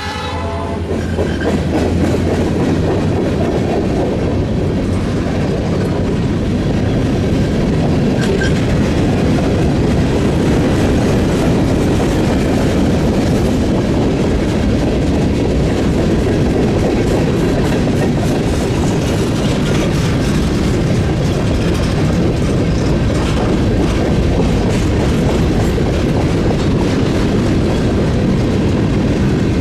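Canadian National freight train rolling past at close range, its wheels clattering steadily over the rails. The sound grows over the first couple of seconds, then holds.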